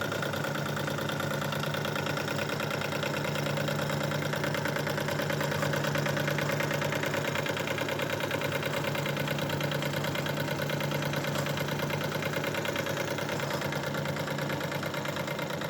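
Wilesco D22 live-steam model twin-cylinder engine running steadily, its fast, even exhaust chuff sounding like a diesel tractor.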